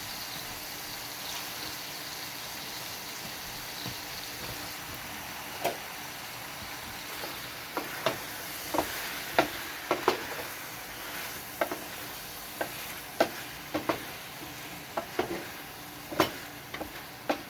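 Eggplant and chicken frying in a pan with a steady sizzle. From about six seconds in, irregular sharp knocks come roughly once a second, from a utensil striking the pan or cutting board.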